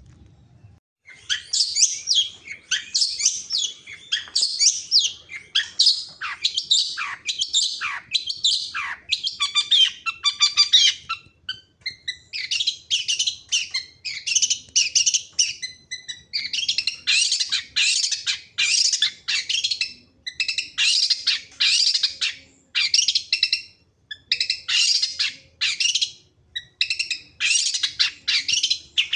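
A songbird singing a long, rapid, varied song of high chirps, trills and quick downward slurs, delivered in short bursts separated by brief pauses.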